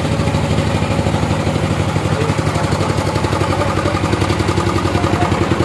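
Engine running steadily at idle with a rapid, even pulse.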